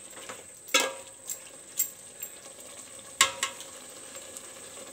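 Chicken in yoghurt-masala paste sizzling as it fries in an aluminium pot, while a wooden spatula stirs it, scraping and knocking against the pot now and then. The sharpest knock comes about three seconds in.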